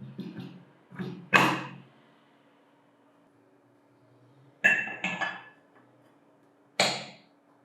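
Small metal parts and tools clinking and being set down, about six short knocks with a brief ring. The loudest comes about one and a half seconds in.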